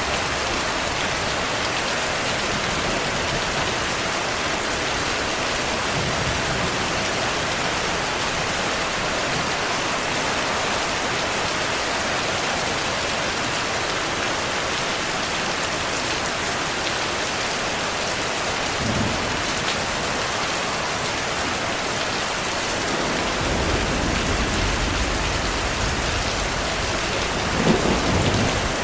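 Heavy rain falling steadily, with thunder: a low rumble builds about three-quarters of the way through and peaks in a sharper, louder crack near the end.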